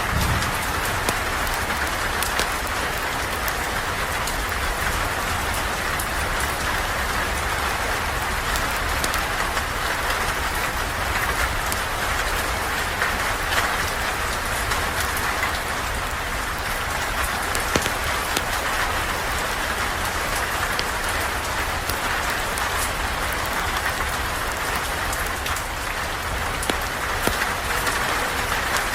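Steady heavy rain falling on surfaces, an even hiss with scattered sharp ticks of drops throughout.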